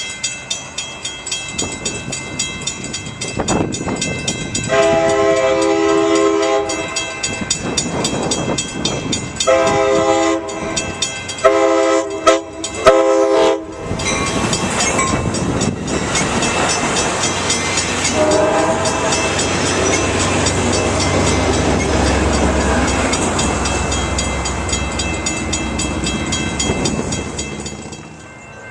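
Diesel locomotive air horn sounding a chord: one long blast, then three shorter ones in quick succession, with a faint blast later. The train then rumbles past with a deep engine drone, and the wheels click rhythmically over the rail joints at the start.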